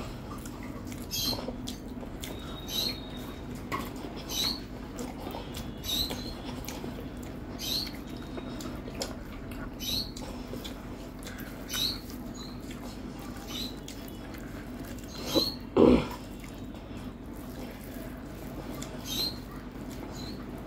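Close-miked eating sounds: short, high, squeaky mouth clicks every second or two as rice and fried food are chewed by hand, with one louder low thump about three-quarters of the way through.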